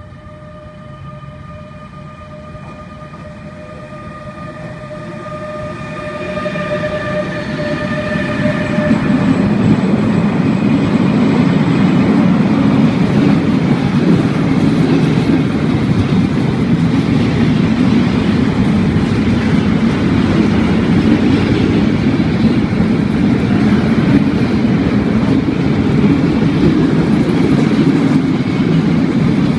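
A freight train running through the station close by. At first there is a steady high squeal with several overtones, which fades out after about eight seconds. Meanwhile the rumble and rattle of the wagons grows over the first ten seconds and then stays loud and steady.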